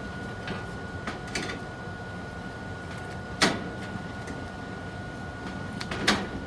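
A few short, sharp knocks or clacks, the two loudest about three and a half and six seconds in, over a steady hiss with a faint high hum.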